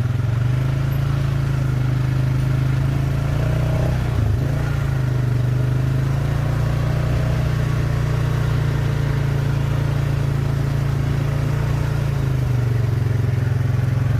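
Four-wheeler (ATV) engine running steadily, its drone close and even, with only slight rises and dips in pitch.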